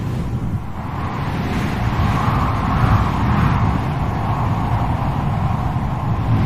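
Strong wind blowing in gusts: a deep rumble under a hollow whistle that swells about two to three seconds in.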